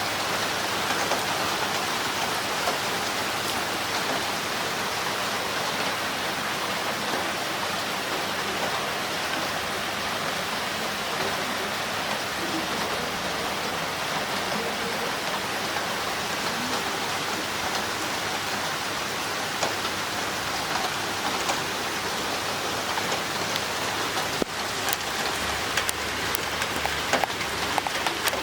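Heavy rain with water running through a drain pipe, a steady even rush of noise. From about 24 seconds in, sharper scattered drop taps come through over it.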